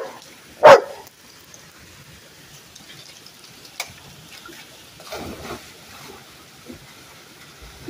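Black Labrador giving one loud, short bark less than a second in, followed by a few much softer noises over a faint steady rush of water from the waterfall.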